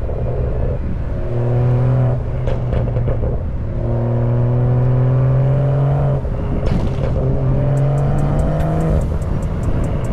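BMW M340i's turbocharged 3.0-litre straight-six accelerating hard in two long pulls, its pitch rising slowly through each. Each pull breaks off with a gear change or lift-off, followed by a short run of exhaust pops and crackles.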